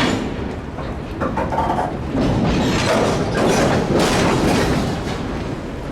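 Canadian Pacific freight train rolling past at slow speed, its cars clanking and knocking along the rails, with a brief squeal about a second in.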